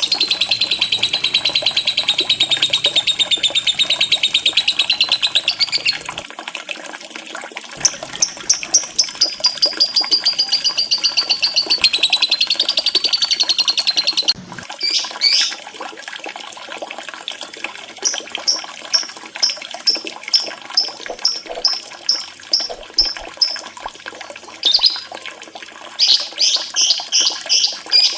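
Lovebird singing: two long, very fast trills of high notes lasting about six seconds each, then a run of short chirps about three a second and a few quick bursts near the end, over the steady trickle of running water.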